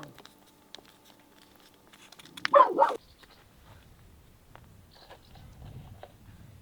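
A dog barking: one short bark at the start, then a louder, longer one about two and a half seconds in, with faint clicks between them.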